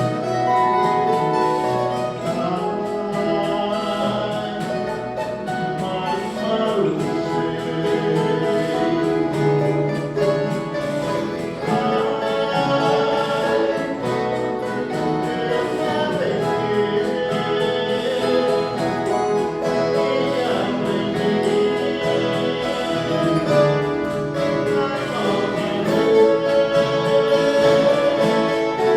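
A group of voices singing in chorus over an ensemble of plucked viola caipira guitars, playing steadily throughout.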